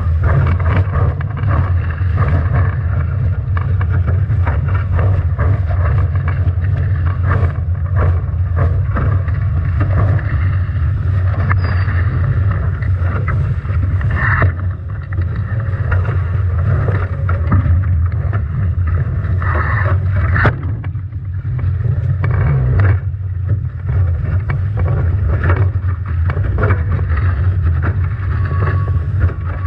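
Strong wind buffeting the microphone with a heavy low rumble, over water rushing past a Nacra 17 foiling catamaran sailing upwind in storm conditions. Frequent sharp slaps of spray and waves hit the boat, a few louder than the rest.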